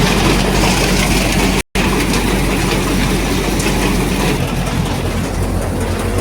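Tractor engine running steadily under load, driving a thresher, with a dense mechanical clatter from the machine over the engine hum. The sound drops out for a split second a little under two seconds in.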